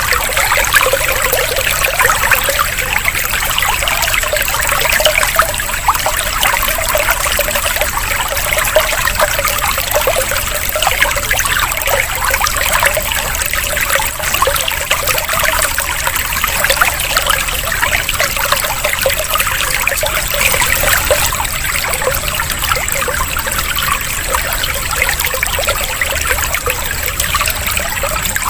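Steady trickling, burbling water, running continuously without a break.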